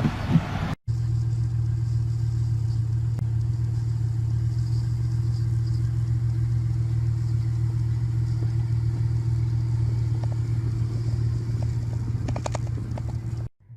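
A motor running with a steady low hum that does not change in pitch, with a few faint clicks near the end.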